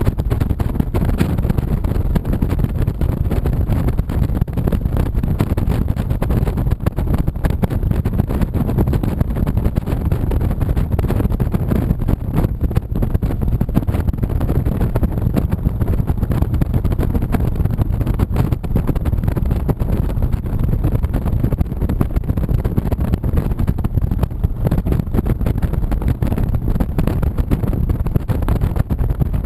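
Honda VTX 1300C's V-twin engine running steadily while the bike is ridden, with wind buffeting the microphone.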